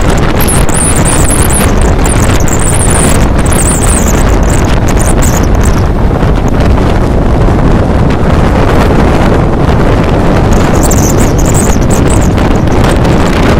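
Heavy wind buffeting the microphone over the steady running noise of a Mumbai suburban electric local train moving at speed, heard from its open doorway. A thin, wavering high whistle comes and goes near the start and again near the end.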